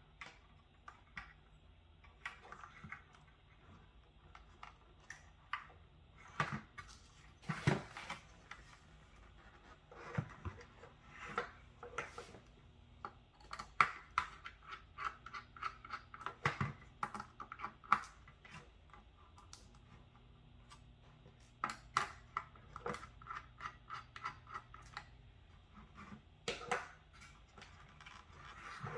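Desktop computer parts being handled during disassembly: scattered clicks, light knocks and scraping, with two stretches of rapid clicking.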